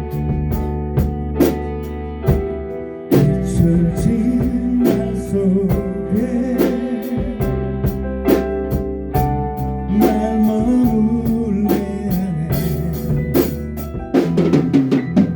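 A rock band playing live in a rehearsal room: drum kit, guitar and a sung vocal line. Near the end comes a drum fill with cymbal crashes.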